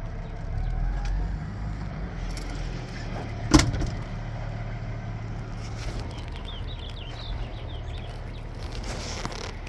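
Caterpillar 3406 inline-six diesel in a 1990 Peterbilt 379 idling steadily, with one sharp metallic knock about three and a half seconds in.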